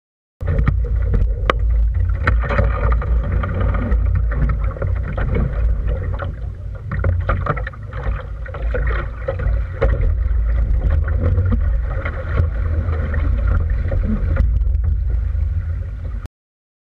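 Wind rumbling on the microphone aboard a small sailboat under way, over the wash of water along the hull, with scattered clicks and knocks from the boat. The sound drops out briefly just after the start and again shortly before the end.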